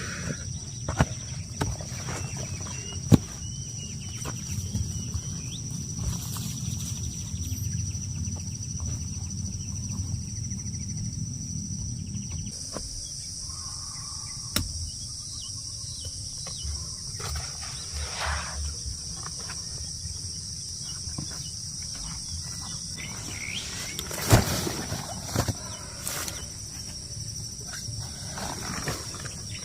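Outdoor ambience with a steady high-pitched insect drone throughout. A low rumble under it cuts off about twelve seconds in, and scattered clicks and knocks come and go, the loudest near the start and about two-thirds of the way through.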